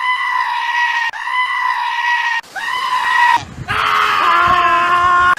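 Goat screaming: three high, steady calls of about a second each, then a longer, lower-pitched call near the end.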